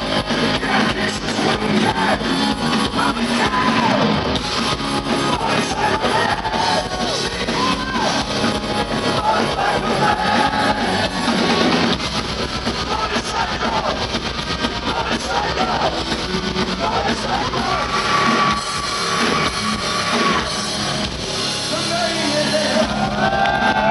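Heavy metal band playing live and loud: electric guitars, drums and singing.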